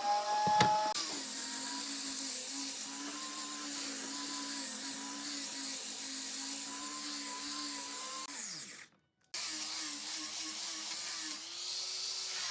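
Electric power tool motor running at a steady pitch with a high hiss. About eight seconds in it winds down, falling in pitch, then cuts off briefly. A similar steady running sound starts again at a slightly higher pitch.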